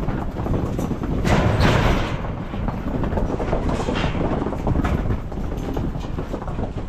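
Continuous rumble and rattle of a moving vehicle, with a louder rushing swell about a second in.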